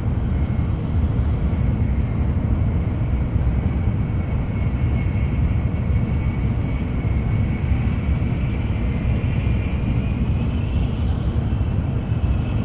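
Nozomi Shinkansen running at speed, heard from inside the passenger car: a steady low rumble of running noise, with a faint high whine that rises slightly near the end.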